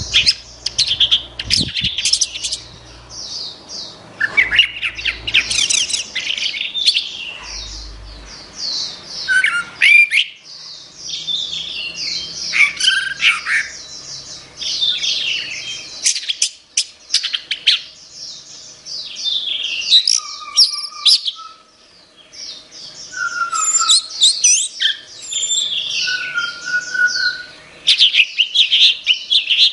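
Orange-headed thrush (anis merah) singing a long, varied song of rapid high chirps, trills and whistles, with a few lower whistled notes in the second half and a short lull about two-thirds of the way through.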